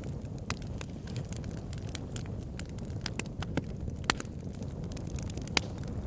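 Wood fire in a fireplace burning with a steady low rumble of flames and irregular sharp crackles and pops, the loudest about four and five and a half seconds in.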